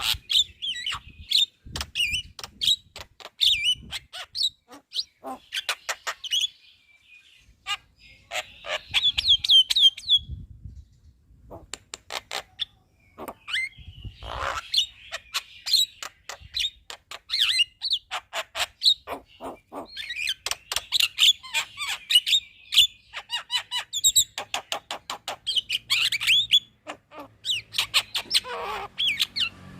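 Javan myna (jalak kebo) chattering song: fast runs of sharp clicks mixed with squeaky, scratchy chirps and whistles, in bursts with a short pause near the middle.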